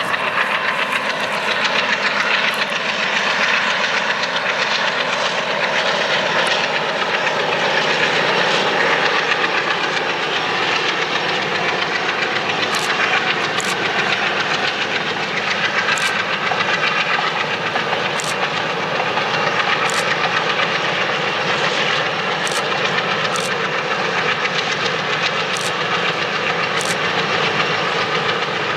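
Train rolling past with a steady, loud wheel-and-rail noise. From about the middle on, wheels click sharply over rail joints every second or two.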